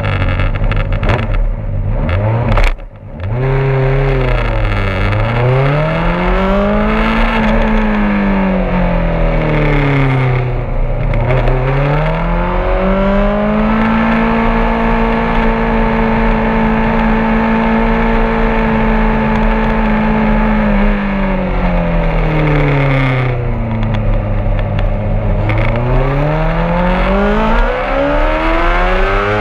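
Honda CBR600RR inline-four engine heard from an onboard camera at speed on a race track. The pitch climbs under throttle and falls away into corners several times, with a brief drop near the start, and is held high and steady for several seconds about halfway through.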